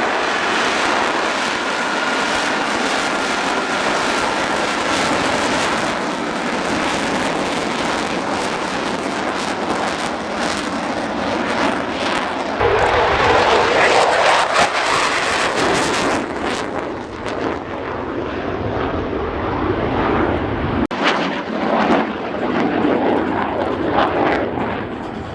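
Aircraft engine noise: a steady roar with a faint high whine at first. A deeper rumble comes in suddenly about halfway through and drops out again near the end.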